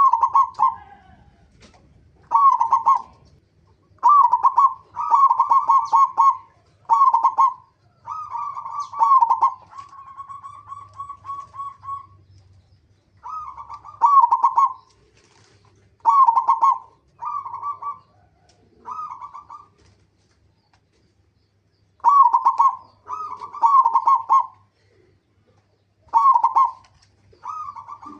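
Zebra dove (perkutut) cooing: short phrases of quick staccato coos repeated every second or two. About ten seconds in, one phrase runs on into a longer, even trill, and there is a pause of about two seconds near the two-thirds mark.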